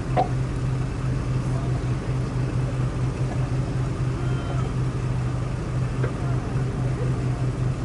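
Off-road 4x4 vehicle running steadily, a low engine drone.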